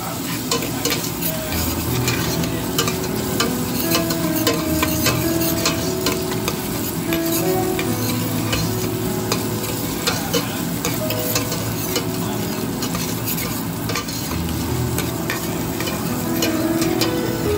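Shallots and garlic sizzling in hot oil in a stainless steel pot, while a metal spoon stirs and scrapes against the pot with frequent small clinks.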